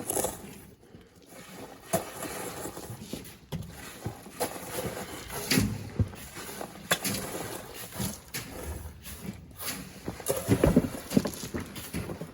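Sand being shovelled by hand into a truck: irregular scrapes and thuds, with a loud cluster of thuds near the end.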